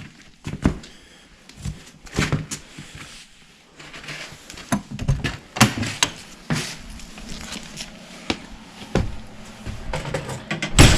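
Irregular knocks, clunks and rustling of hands handling parts during furnace repair work, with a sharp knock near the end.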